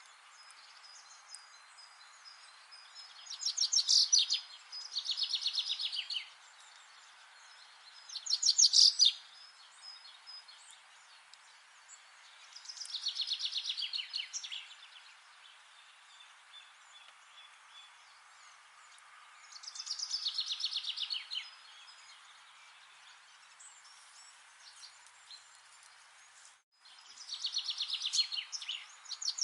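A songbird singing: phrases of rapid repeated notes, each a second or two long, come every few seconds over a steady outdoor hiss.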